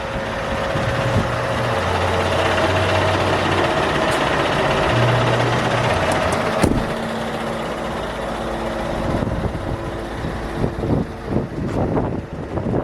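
Scania R580's V8 diesel engine running steadily, with wind noise on the microphone. A single sharp knock sounds about six and a half seconds in.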